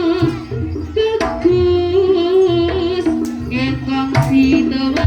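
Jaranan music: a wavering, held melody line over repeated low drum beats, changing note every second or so.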